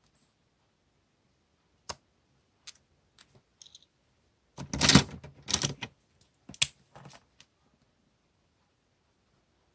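Stationery being handled on a desk: a few light clicks and taps, then about a second and a half of loud rustling and rummaging around the middle, followed by a couple of shorter rustles.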